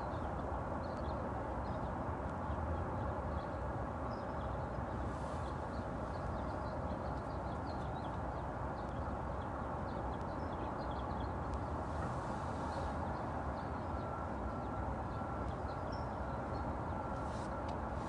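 Birds calling with many short, high chirps over a steady outdoor background noise.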